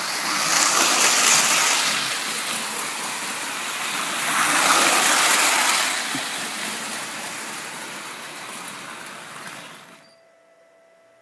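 Prewar Lionel Flying Yankee O-gauge toy train running on FasTrack, its motor and wheels making a steady rushing whir. It swells louder twice, fades, and cuts off abruptly about ten seconds in as the train stops.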